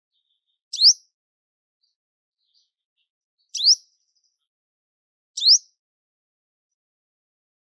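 A bird calling three times, each call a short, fast-rising whistle; the second comes about three seconds after the first and the third about two seconds after that.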